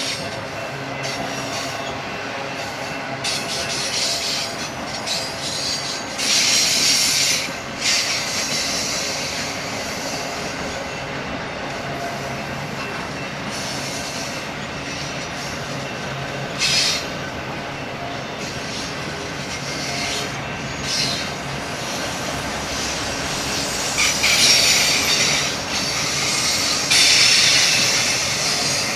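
Freight train cars rolling past on the rails with a steady rumble, broken by short bursts of high-pitched wheel squeal, the loudest about a quarter of the way in and again near the end.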